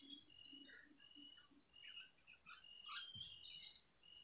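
Faint birds chirping and whistling in the surrounding trees, short high notes, some repeated about three times a second. A soft low thud comes a little after three seconds in.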